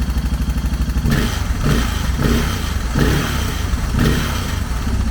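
Suzuki DR650 single-cylinder four-stroke engine idling, then revved in a run of short throttle blips, on its first start after a rebuild, with an exhaust leak the owner has noted.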